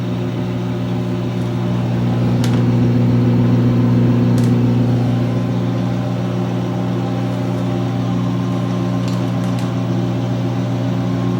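2006 GE Profile top-loading washer spinning in its wash-to-rinse spin: a steady motor and drum hum that swells a little a few seconds in and then settles, with a few faint ticks.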